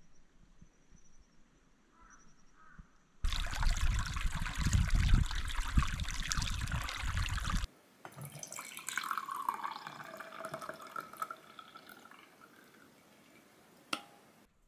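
Water running hard from a kitchen tap for about four seconds and stopping abruptly, then a quieter stream of running water whose tone falls. A single sharp click near the end.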